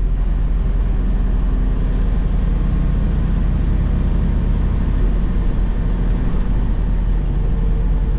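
Semi-truck's diesel engine running steadily with road noise while driving at highway speed, heard from inside the cab.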